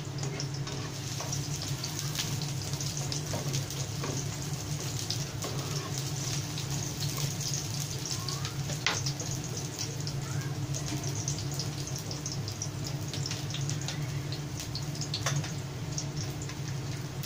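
Sliced red onion and smashed garlic sizzling in hot oil in a frying pan: a steady crackle of many small pops. A steady low hum runs underneath.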